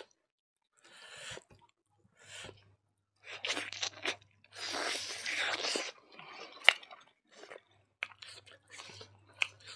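Chewing and biting into curried chicken pieces eaten by hand, heard close up in irregular bursts, with a sharp click about two-thirds of the way through.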